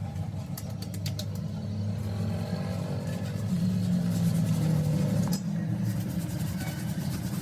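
An engine running steadily, its pitch rising a little about three and a half seconds in and falling back about two seconds later, with a few sharp clicks near the start.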